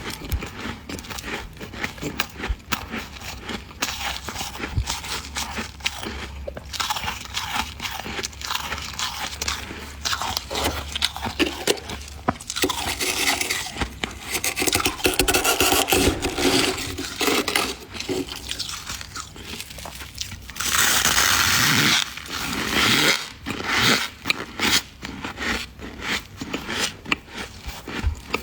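Freezer frost being scraped and crunched in the mouth: a steady run of crisp crackles and scrapes, with two longer, louder stretches about halfway through and around 21 seconds in.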